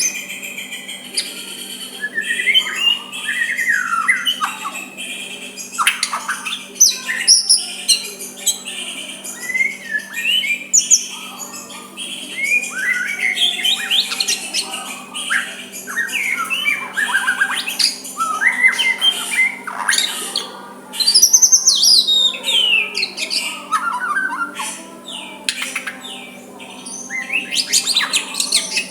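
White-rumped shama singing a varied run of clear whistles, chirps and harsher squawky notes in quick phrases that rise and fall in pitch, over a steady low hum.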